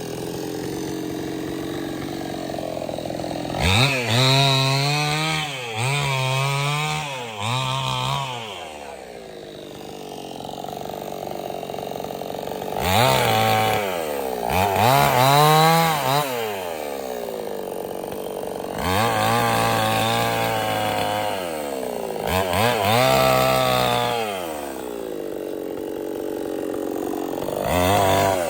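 Stihl 070 two-stroke chainsaw revving in repeated bursts, its pitch rising and falling, and dropping back to a lower steady run between bursts.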